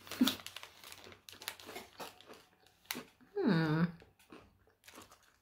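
A person chewing a small crunchy biscuit with the mouth closed, giving soft scattered crunches and mouth clicks. About three and a half seconds in comes a short closed-mouth 'mmm' hum that drops in pitch and then levels off.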